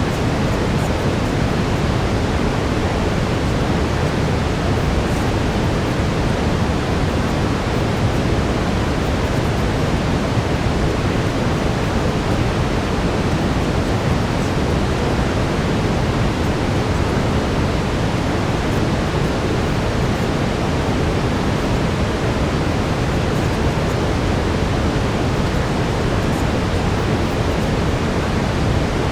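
Steady brown noise: an even, deep rushing hiss, heaviest in the low end, with no changes or events.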